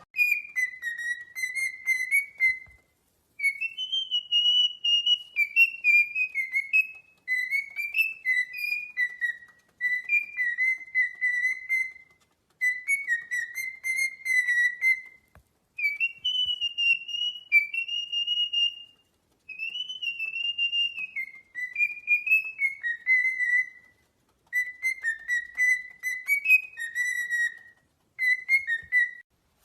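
A parrot whistling a tune: clear, high whistled notes that step up and down in pitch, in phrases of a couple of seconds with short pauses between them.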